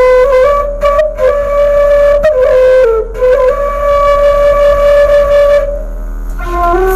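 Bamboo suling flute playing a slow melody of a few notes with short breaks between phrases. In the middle one note is held for about two and a half seconds, and the playing turns soft near the end before a new phrase begins.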